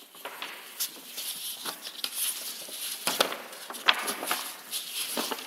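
Irregular rustling with scattered light clicks and taps, as things are handled close to the microphone.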